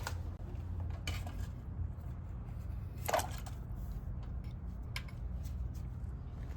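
Small metal parts being handled, with a few separate clinks about a second or two apart, the loudest near the middle, over a steady low hum.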